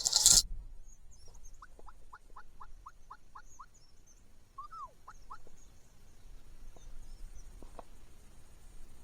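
Wild turkey yelping: a run of about eight evenly spaced yelps, about four a second, then a few more notes about five seconds in. Small birds chirp faintly throughout. A short loud burst of noise comes right at the start.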